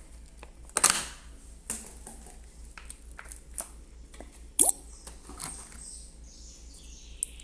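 Slime with coloured beads being squeezed and stretched by hand, giving scattered wet squelches, pops and clicks. The loudest come about a second in and around four and a half seconds in.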